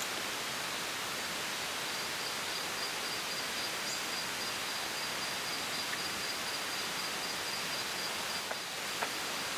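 Rainforest ambience: a steady, even hiss, with a thin high insect whine setting in about two seconds in. A couple of small clicks near the end.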